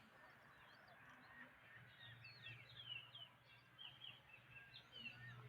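Faint chirping of small birds: many short high calls and quick falling whistles, scattered and overlapping, over a low steady hum.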